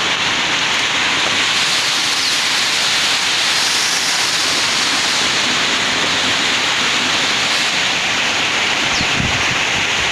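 Heavy rain pouring down in a dense, steady hiss. Near the end, low rumbles of strong wind buffet the microphone.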